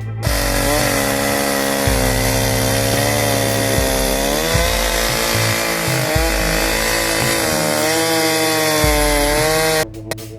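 Chainsaw running at full throttle, cutting through a fire-killed log, its pitch rising and dipping as it works through the wood; it stops abruptly near the end.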